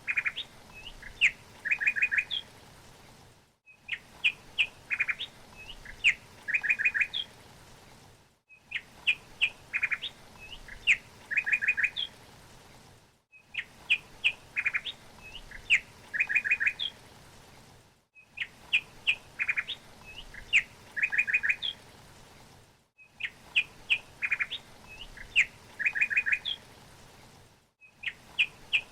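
Small songbird chirping: a phrase of short high chirps and quick trills that repeats identically about every five seconds, with a brief silent gap between repeats, a short recording looped over and over.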